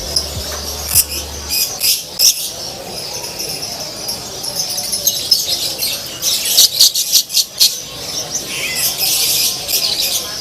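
Many caged songbirds chirping and singing at once, in quick overlapping high calls and trills that thicken about halfway through and again near the end.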